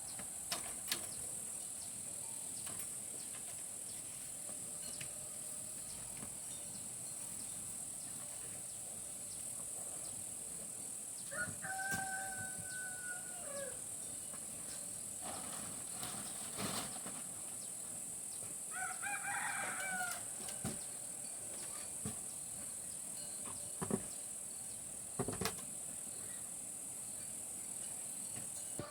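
A rooster crows twice, each crow about two seconds long, over a steady high-pitched hiss, with a few scattered knocks.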